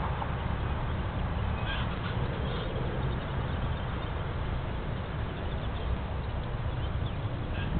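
Outdoor ambience: a steady low rumble with a few short bird calls, a pair about two seconds in and one more near the end.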